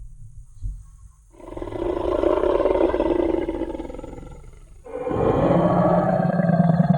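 Tyrannosaurus rex roar sound effect: two long, deep roars, the first starting about a second in and fading away over about three seconds, the second starting about five seconds in and still going at the end. A few low thuds come before the first roar.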